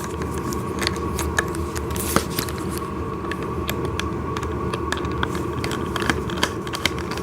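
Irregular small clicks and ticks of a screwdriver turning out the bolt that holds the ride-on toy tractor's steering shaft, over a steady low hum.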